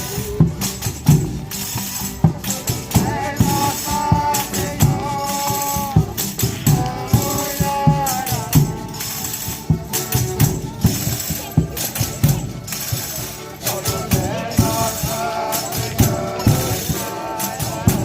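Folia de Reis folk music: tambourine and rattles keep a fast, steady beat, and a sustained melody comes in at intervals above it.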